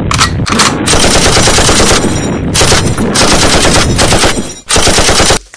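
Machine-gun sound effect: long, loud, sustained rapid automatic fire, with a brief break near the end before it stops.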